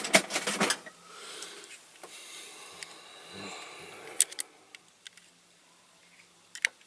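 Small metal clicks and clinks of a diecast toy car being handled and taken apart, its rivets just drilled out. A quick cluster of clicks comes in the first second, then faint rustling handling, with a single sharp click about four seconds in and another near the end.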